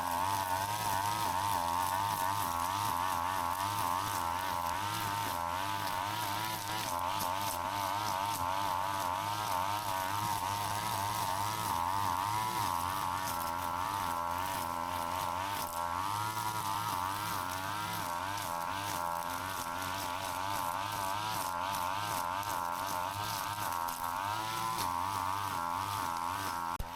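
Brush cutter's small two-stroke engine running at high speed and cutting through grass and weeds, its buzzing pitch wavering up and down as the load changes.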